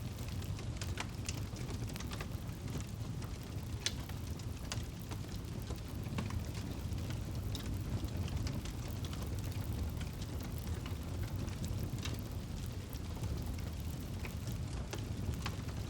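Campfire burning: a steady low rush of flame with scattered, irregular sharp crackles and pops from the burning wood.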